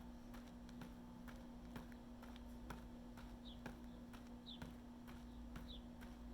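Footsteps at a walking pace, about two a second, with a bird giving three short high chirps. A faint steady hum runs underneath.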